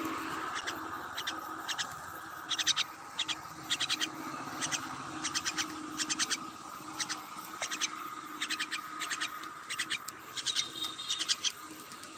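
Myna bird making short, sharp clicking sounds in quick clusters of two to four, spread irregularly, over a faint steady hum.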